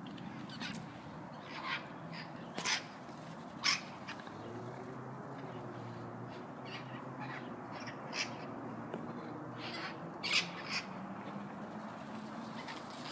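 A flock of parrots giving short, harsh squawks, a call every second or two, the loudest a pair about ten seconds in, over a steady low background hum.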